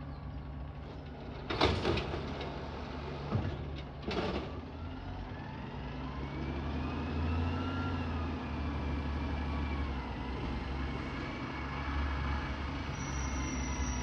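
Garbage truck's diesel engine running, with two short hisses of air about a second and a half and about four seconds in. After that the engine note rises and falls as it revs.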